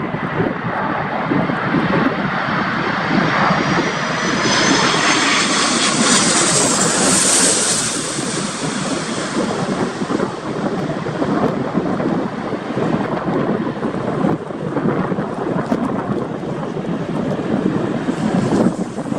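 Jet airliner passing close by on its landing approach. A high engine whine rises to a peak about seven seconds in, then fades into a broad rumble, over gusting storm wind on the microphone.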